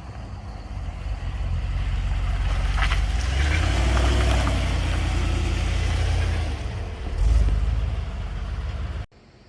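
2015 Cadillac Escalade's 6.2-litre V8 running through its exhaust before the Corsa cat-back is fitted. The sound swells over the first couple of seconds, surges briefly about seven seconds in, and cuts off suddenly near the end.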